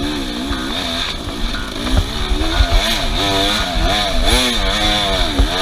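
Off-road vehicle engine revving hard over and over, its pitch climbing and dropping roughly once a second, with a few low knocks mixed in.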